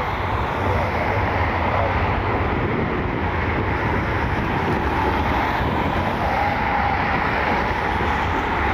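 Jet airliner engines heard across the airfield: a steady rumble with a faint whine.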